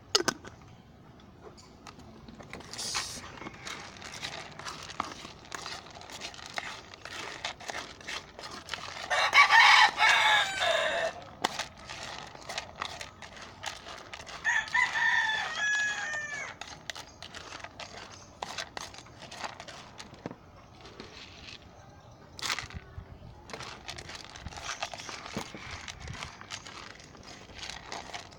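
Game fowl roosters crowing: one loud, long crow about nine seconds in and another shorter crow a few seconds later, over scattered clucks and short clicks.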